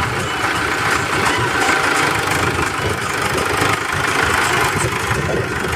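Mahindra Arjun tractor's diesel engine running steadily at a low, even speed.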